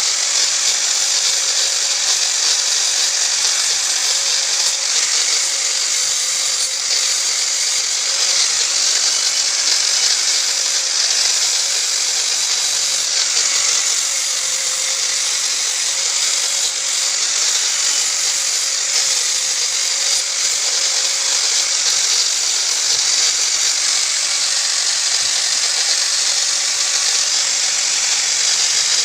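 A power tool running steadily without a pause: a continuous high hiss of grinding, over a faint steady motor hum.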